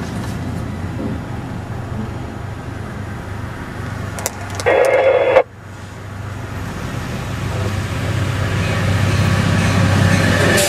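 Steady low rumble of a moving vehicle. About halfway through, a loud tone lasting under a second breaks in and cuts off sharply, then the rumble builds again toward the end.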